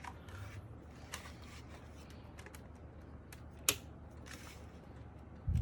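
A few scattered sharp clicks and taps from handling a mechanical keyboard, the loudest just under four seconds in, then a low thump near the end.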